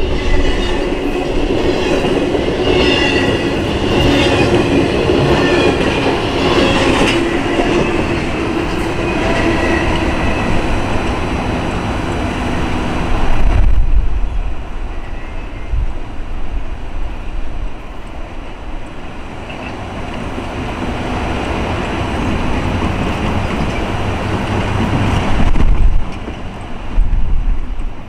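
Intermodal freight cars loaded with highway trailers rolling past: a steady rumble and clickety-clack of steel wheels on the rail, with some wheel squeal in the first half. The sound grows duller and quieter as the end of the train draws away, and a few low thumps come near the middle and near the end.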